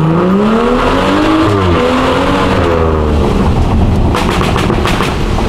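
Straight-piped car engine accelerating, heard from inside the cabin. The pitch climbs, breaks at an upshift about a second and a half in, climbs again, then eases off into a steady drone after about three seconds.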